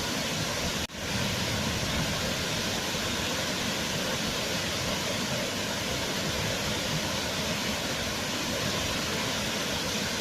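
Waterfall: a steady, dense rush of falling water, with a momentary dropout about a second in.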